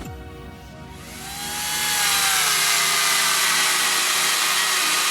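A power tool starts up about a second in and runs loudly with a steady hiss, its pitch sagging slowly as it works under load.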